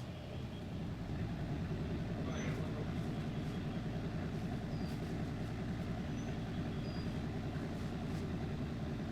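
A vehicle engine idling steadily with an even low pulse, waiting to pull.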